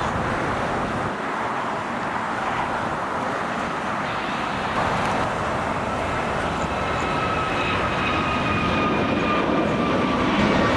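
Jet airliner passing close by, its engines a loud steady rush, with whining engine tones slowly falling in pitch in the second half.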